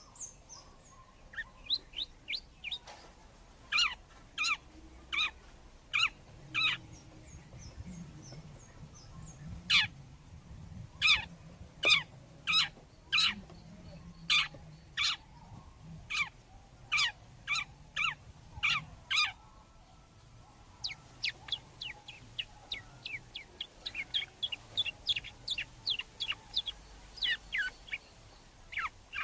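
Long-tailed shrike calls: a long series of short, sharp chirps, each sliding down in pitch. They come about one or two a second at first, then quicken into a rapid run near the end.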